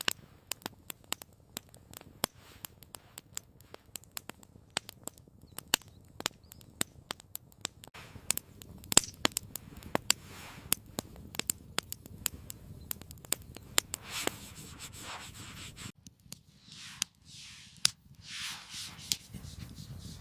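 Wood fire crackling, with irregular sharp pops several times a second. In the last few seconds it is joined by swelling rustling hisses.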